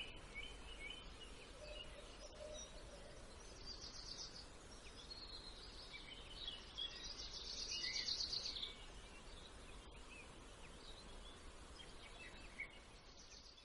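Small birds chirping in the background, with several high, rapid trills of a second or two each, the loudest a little past the middle, over a steady low hum.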